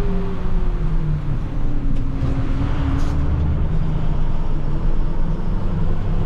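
Plow truck running, heard from inside the cab: a steady low engine rumble whose note falls over the first couple of seconds and then holds steady.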